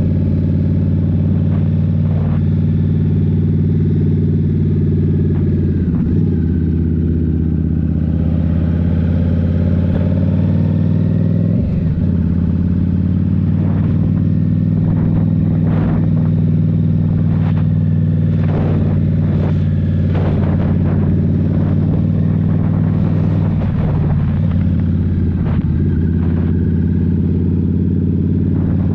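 Indian Scout Rogue's liquid-cooled V-twin with a Rinehart slip-on exhaust running steadily under way, its note briefly dropping and changing about six, twelve and twenty-four seconds in as the throttle or gear changes. A run of short clicks and knocks comes through in the middle stretch.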